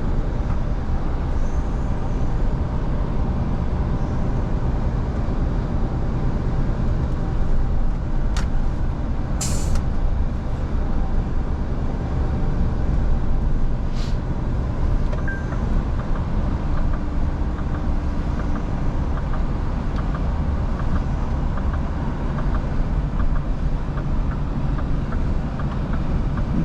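Scania V8 truck engine running steadily under way, a constant low drone with road noise. A few faint clicks and a short hiss come through about nine to ten seconds in.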